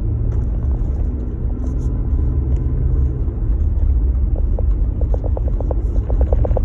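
Jeep Gladiator running, a loud steady low rumble of engine and road noise. Over the last two seconds a rapid series of clicks comes in, about five a second.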